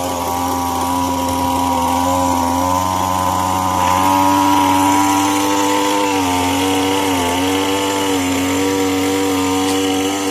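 Echo SRM-225 two-stroke string trimmer running steadily at high speed. Its pitch steps up about four seconds in, then wavers up and down a few times.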